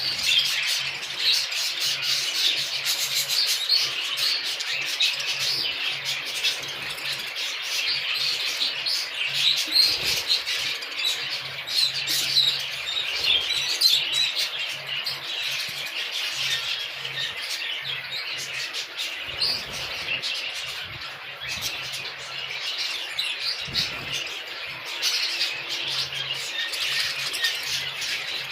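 A flock of exhibition budgerigars chattering and chirping continuously, many birds calling at once, with a faint low hum coming and going underneath.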